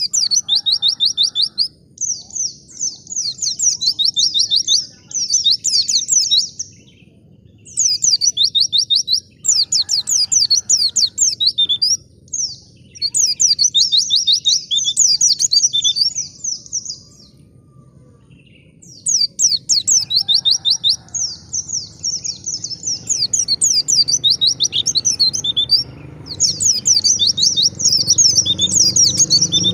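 White-eye (pleci) singing in rapid, high-pitched trilled phrases a few seconds long, separated by short pauses. A low rumbling background noise builds in the last several seconds.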